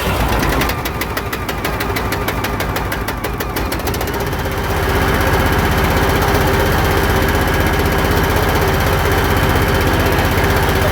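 Gasoline engine of an old bucket truck running just after starting, with stale fuel drained out: a rapid ticking for the first few seconds, then a steadier, slightly louder run from about four seconds in.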